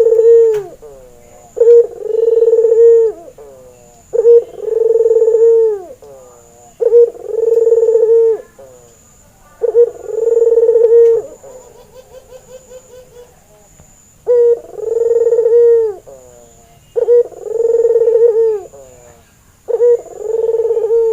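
Albino domestic ring-necked dove (burung puter) cooing over and over, a short note followed by a long drawn coo, about every two and a half seconds. A faint quick rolling trill comes in a gap about halfway through.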